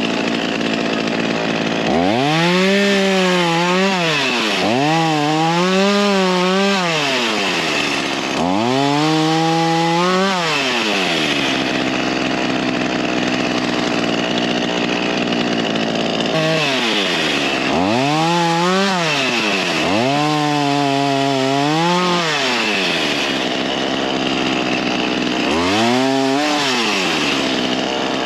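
Ryobi 37cc two-stroke gas chainsaw running, its engine revved up and let back down six times, in two groups of three, with lower steady running in between.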